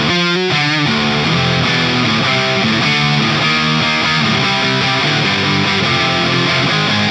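Distorted electric guitar played through a Soldano SLO-100 clone tube amplifier: a continuous stream of held chords and notes, with a quick flurry of fast notes in the first second.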